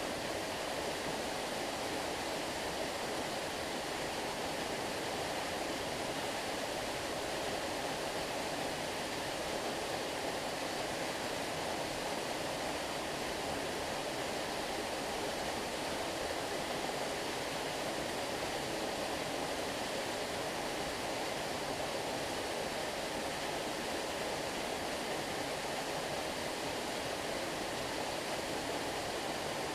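Stream water flowing steadily: an even, unbroken wash of water noise with no splashes or changes.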